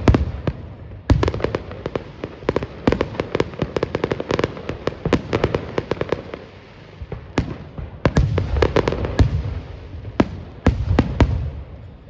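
Fireworks bursting in rapid volleys: many sharp bangs and crackles, with heavier deep booms in clusters right at the start, around eight seconds in and again near the end.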